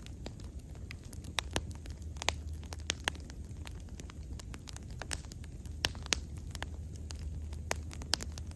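Wood bonfire burning, crackling with irregular sharp pops over a steady low rumble of the flames.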